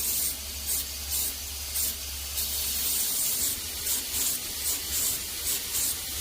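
Steady hissing spray that swells and eases every half second or so, over a steady low electric hum.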